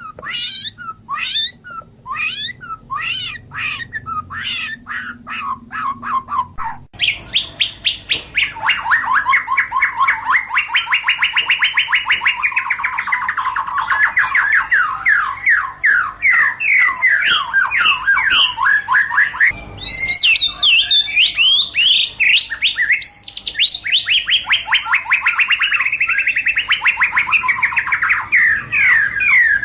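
White-rumped shama (murai batu) singing: separate whistled notes at first, then from about seven seconds in long runs of fast repeated chattering notes that rise and fall in pitch.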